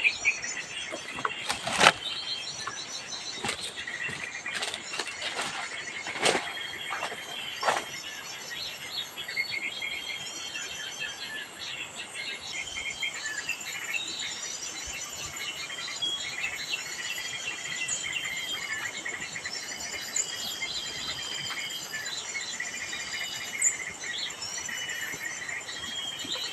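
Small birds chirping and calling over and over in the bush, over a steady high insect whine, with a few sharp cracks in the first eight seconds.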